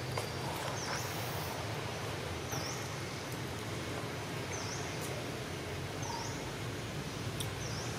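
Outdoor forest ambience: a steady hiss with a low hum under it. Over it, a bird repeats a short high note that dips and rises again, about every one and a half to two seconds.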